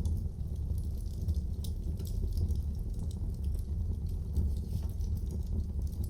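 Wood fire crackling in a fireplace: a steady low rumble with many small, irregular pops and snaps.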